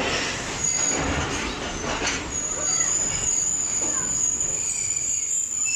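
Railway wheels or brakes squealing at the station: a high, steady squeal that sets in about two seconds in and holds, over the general din of the platform.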